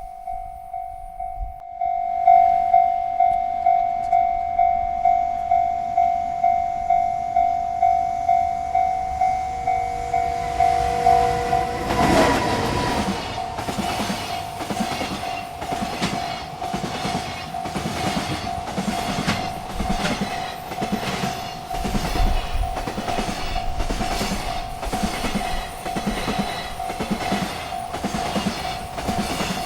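Railroad crossing bell ringing about twice a second; about twelve seconds in, a freight train arrives and rolls past with a steady clickety-clack of wheels over the rail joints while the bell keeps ringing underneath.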